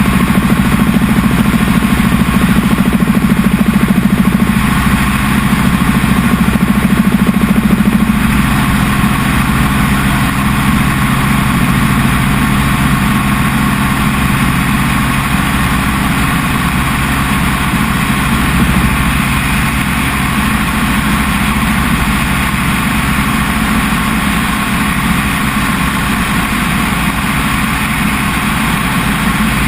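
Helicopter engine and rotor noise, a loud steady drone with low hum tones. It eases slightly about eight seconds in.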